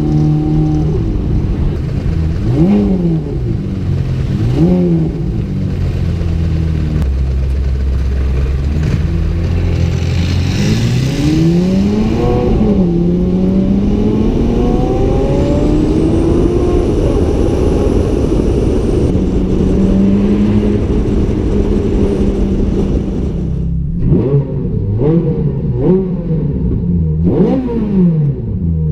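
Ferrari F430 Scuderia's V8 engine revving, with two quick throttle blips early on and a longer climb in revs about twelve seconds in. It settles into a steady run for several seconds, then gives a quick series of sharp blips near the end.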